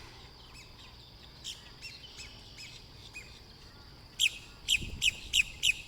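Birds chirping: scattered soft, short downslurred chirps, then about four seconds in a quick run of five or six loud, sharp downslurred chirps.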